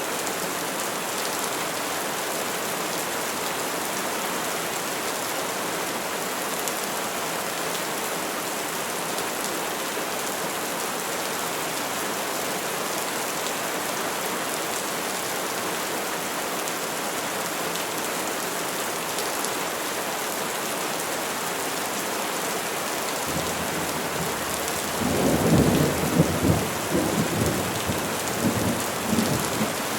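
Steady rain falling on trees, an even hiss of many drops. About 25 seconds in, a low rumble of thunder rolls through in several loud pulses for a few seconds.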